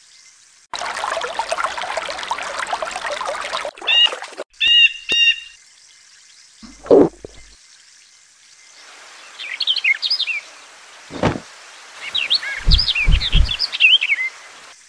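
Bird calls and chirps: a dense chirping layer, then a few clear pitched calls, then scattered high chirps over a hiss. Several short low thumps come in the second half.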